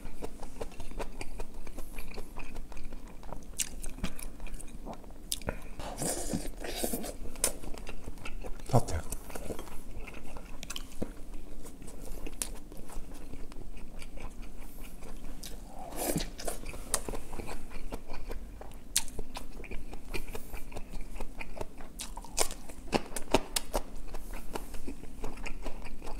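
A person chewing and biting into braised kimchi and pork, with wet crunching and frequent small sharp clicks.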